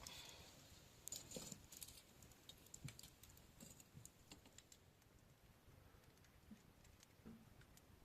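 Near silence with faint, scattered clicks and rustles, a little busier between about one and two seconds in.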